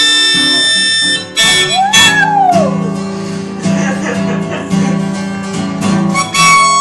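A dog howling along to blues guitar music, one howl rising then falling in pitch about two seconds in.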